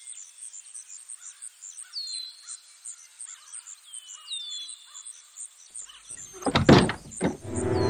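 Night woodland ambience: a bird repeating short falling whistled notes over a steady, fast, high pulsing of insects. About six and a half seconds in comes a sudden, loud cluster of knocks, and near the end music begins with sustained chords.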